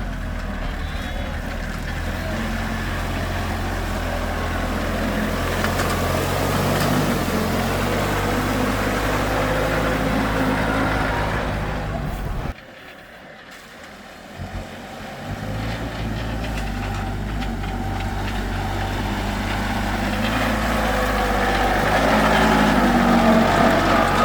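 Tractor engines running: one engine runs steadily for about twelve seconds and cuts off suddenly, then after a short quieter gap another engine comes in and grows louder towards the end.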